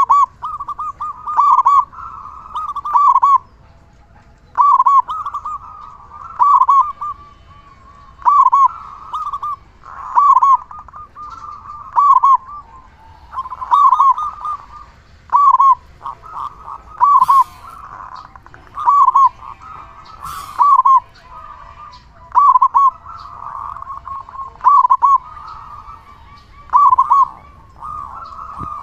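Zebra dove (perkutut, local strain) singing: a loud, rolling coo phrase repeated about every two seconds, with softer cooing between phrases.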